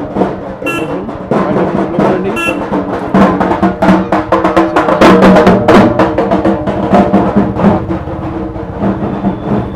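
Loud procession drumming with rapid, dense drumbeats over sustained music, from a Kali idol immersion procession.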